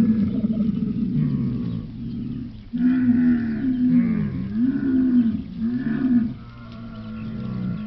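Camel vocalising: a run of drawn-out calls whose pitch rises and falls, with a short break about two and a half seconds in, then four arched calls of about a second each, and a quieter, steadier drone near the end.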